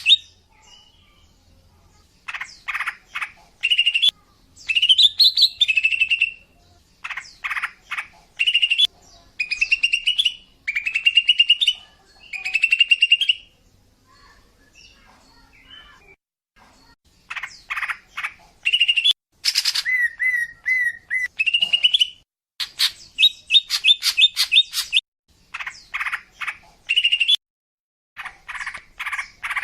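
Female green leafbird (cucak ijo) calling in short bursts of rapid chattering and chirping notes, with a pause about halfway through. These calls are used as a lure to draw in males.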